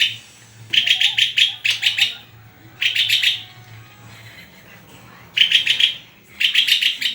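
A songbird singing in five short bursts of rapid, repeated high chirps, each burst about half a second long with pauses between, over a faint low hum.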